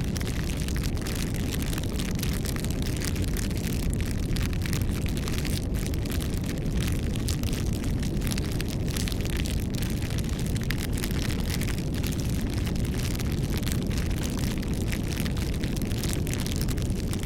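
Campfire burning: a steady low rumble of flames with many small, irregular crackles and pops from the wood.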